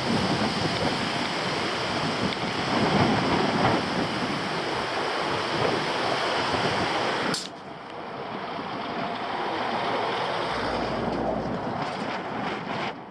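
Wind buffeting the camera microphone as a loud, even rushing noise. About seven seconds in it drops abruptly to a quieter rush, with a few faint clicks near the end.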